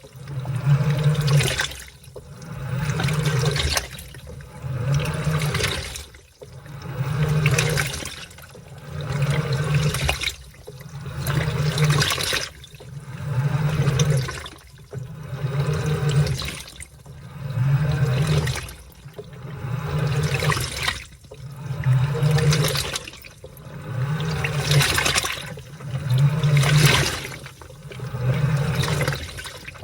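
Washing machine agitating a load of laundry in water: a steady rhythm of sloshing and churning, one stroke about every two seconds, each with the low hum of the drive motor.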